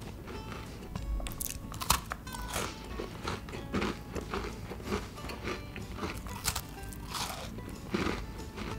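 A cookie being crunched and chewed in the mouth, in a string of short, sharp crunches, with background music underneath.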